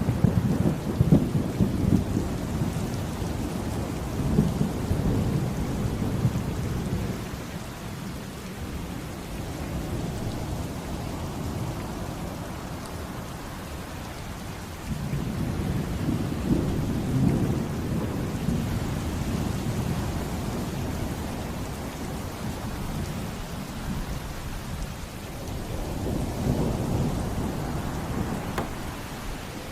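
Steady heavy rain with rolling thunder rumbling three times: once as it begins, again starting suddenly about halfway through, and a shorter roll near the end.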